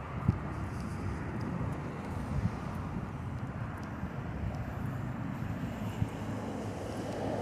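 Steady low rumble of a bicycle ride, wind and tyre noise, broken by three sharp knocks, the loudest about a third of a second in.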